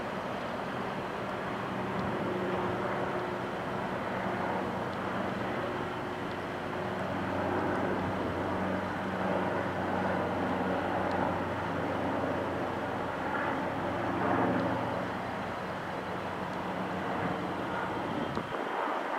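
EWS Class 66 diesel locomotive 66027, its two-stroke V12 EMD engine working under load as it departs with a coal train: a steady deep drone. The engine note grows stronger about seven seconds in, and the lowest rumble drops away just before the end.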